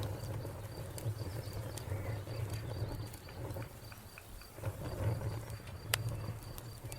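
Wood fire crackling with scattered pops over a low rumble, one sharp pop about six seconds in. A cricket chirps in a fast, even pulse throughout.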